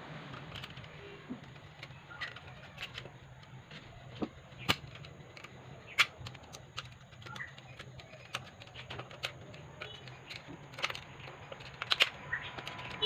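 Irregular light clicks and knocks of parts and hand tools being handled during transmission work, the sharpest about five, six and twelve seconds in, over a faint steady hum.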